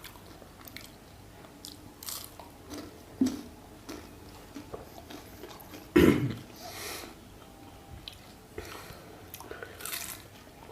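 People chewing and biting into jalebi, the crisp syrup-soaked fried sweet, with short wet crunching and mouth noises. A louder sudden noise comes about six seconds in.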